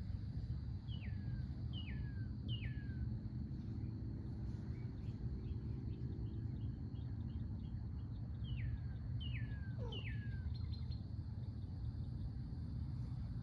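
A songbird whistles two phrases, each of three notes sliding down in pitch: one near the start and one about two-thirds of the way through. Under it runs a steady low outdoor rumble and a faint steady high tone.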